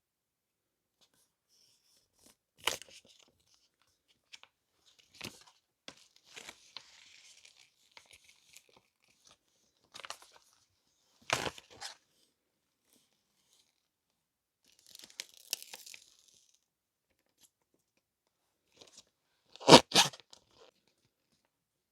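Paper and plastic packaging from a box of stationery being opened and handled by hand: scattered short tearing and crinkling sounds and light taps, with a loud double knock about twenty seconds in.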